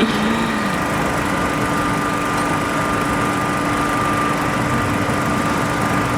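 A truck's engine idling steadily: an even mechanical hum with a few constant tones running through it.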